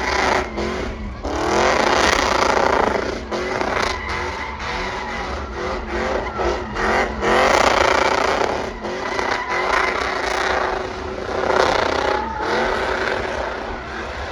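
A V8 drag-racing truck engine revving hard under full throttle, its pitch climbing in several rising sweeps.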